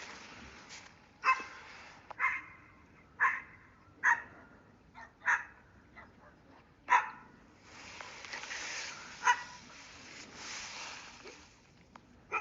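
A dog barking repeatedly, about eight short single barks spaced roughly a second apart, with a gap in the middle. A rush of wind noise comes up in the second half.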